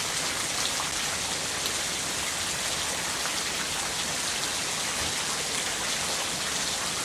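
Steady rain falling on a wet concrete patio and standing puddles: a constant hiss with scattered splashes of single drops.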